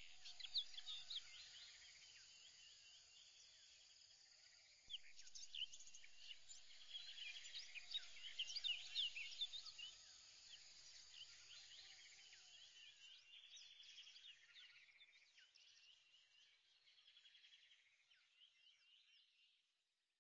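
Faint birdsong: many short chirps and whistles from several birds, busiest in the middle and fading away near the end.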